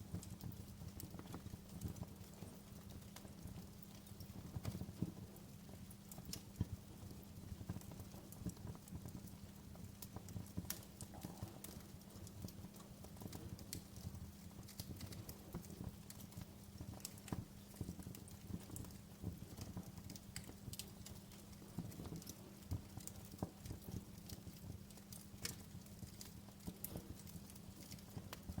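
Wood fire crackling in a fireplace: irregular sharp pops and snaps over a faint, steady low rumble of burning.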